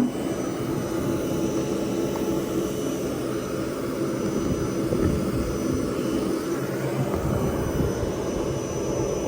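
Bee vacuum running steadily, a constant motor hum drawing bees off the comb.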